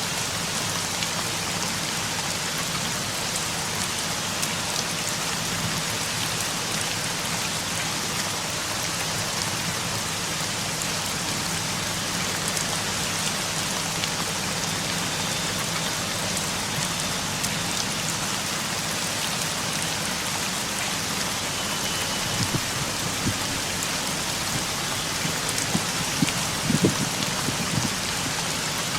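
Steady monsoon rain falling and pattering on surfaces, with a few louder taps near the end.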